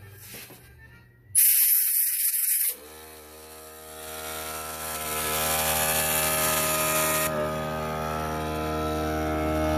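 A loud hiss of about a second, then a motor starts and runs steadily with an even pitched hum.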